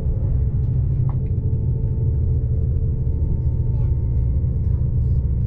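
Steady rumble of a fast-moving passenger train heard from inside the carriage, with a faint steady whine coming in about a second in.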